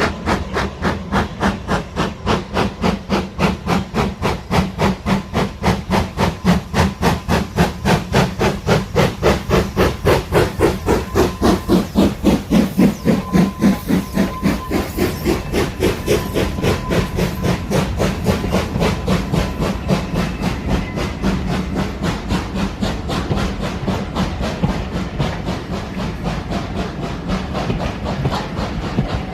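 Steam locomotive working under steam, its exhaust chuffing in a regular beat that grows louder, then gives way to a steadier rumble about halfway through.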